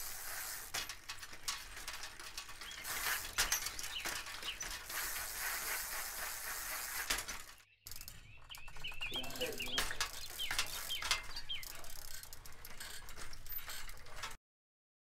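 Birds chirping over an outdoor background hiss with scattered small clicks. The sound cuts out briefly about halfway through and again just before the end.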